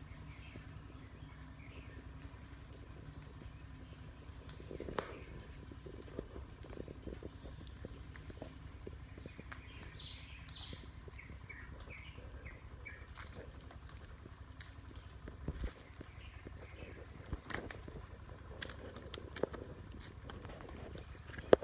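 Steady high-pitched insect chorus, with scattered faint chirps and small ticks over it.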